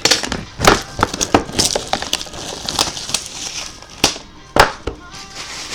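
Trading-card packs and cards being handled and opened on a table: crinkling, crackling wrapper and a run of sharp clicks and taps. Two louder knocks come a little after four seconds in and again about half a second later.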